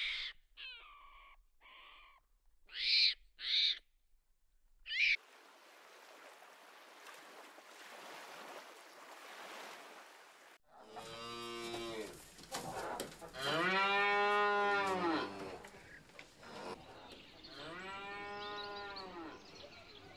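Cattle mooing: three long moos that rise and fall in pitch, in the second half. Before them come a few short, sharp high calls, then a steady rushing hiss for about five seconds.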